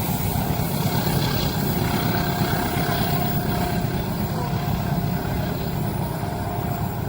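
Train passing close by at a level crossing: a loud, steady rumble of wheels on the rails.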